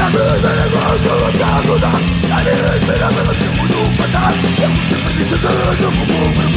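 Rock band playing loud and live in an instrumental passage: distorted electric guitars and bass over fast, driving drums, with a guitar line bending up and down in the middle.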